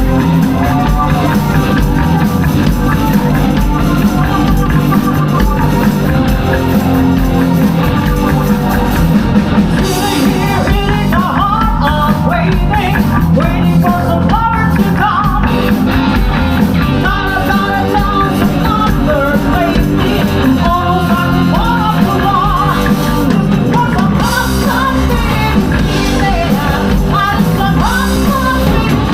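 Live rock band playing a song at full volume, with a singer coming in about a third of the way through.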